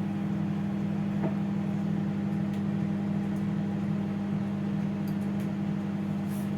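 Russell Hobbs RHMM713 compact 700-watt manual microwave oven running during a heating cycle: a steady low hum.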